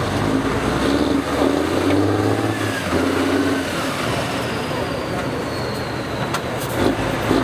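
A motor vehicle engine running, rising in revs about a second in and easing back off after about four seconds, with background noise and some voices.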